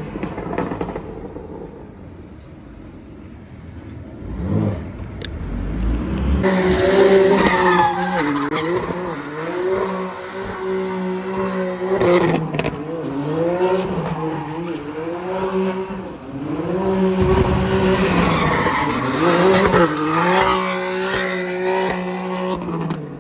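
BMW F80 M3's twin-turbo straight-six held high in the revs while drifting, its pitch wavering down and up again and again with the throttle, over tire squeal. It is quieter at first and builds to full volume about six seconds in.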